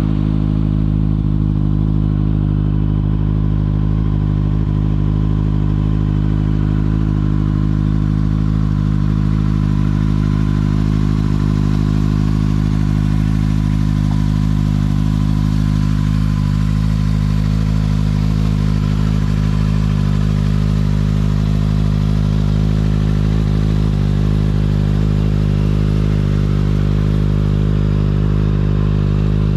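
Kawasaki ZX-6R 636 inline-four engine idling steadily through an Akrapovič exhaust.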